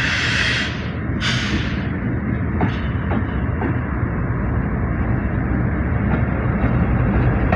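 General Electric diesel locomotive rumbling steadily as it pulls a passenger train into the station, growing slightly louder. Two short bursts of hissing come in the first two seconds, and a few faint clicks follow.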